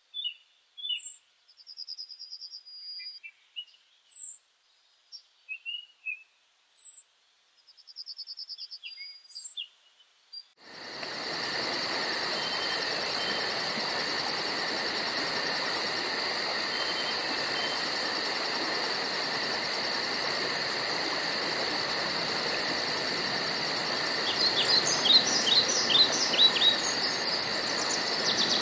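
Birds calling and singing: short chirps, brief trills and high down-slurred whistles, one at a time over silence. About ten seconds in, it cuts suddenly to a steady insect chorus with a fast, high pulsing trill, and a bird calls several times over it near the end.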